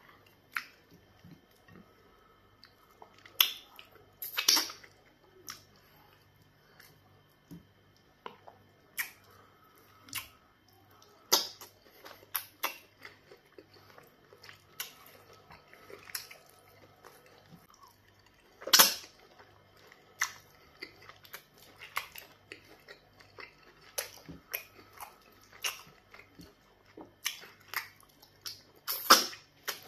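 Close-up wet chewing and lip-smacking of pounded yam fufu and black soup eaten by hand, with irregular sharp mouth smacks, a few much louder than the rest.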